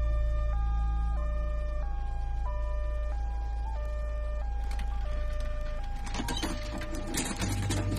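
Ambulance siren sounding a two-tone hi-lo wail, the two notes alternating about every half second, over a deep low rumble. About five seconds in, a run of sharp clattering noises joins it.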